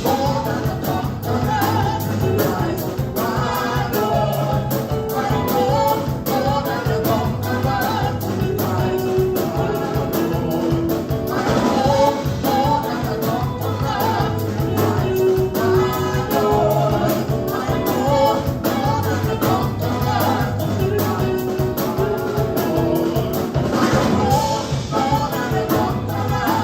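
A live gospel praise band and group of singers perform an upbeat praise song: voices singing together over a steady drum beat and bass.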